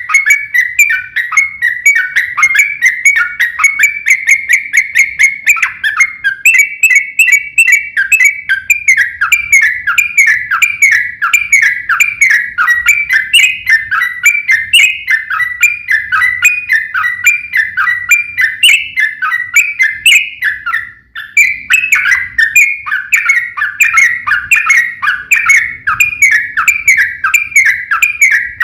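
Sooty-headed bulbul (trucukan) in a long, fast, agitated fighting-style song: short whistled notes, each sliding down in pitch, repeated about three a second, with one brief break about 21 seconds in.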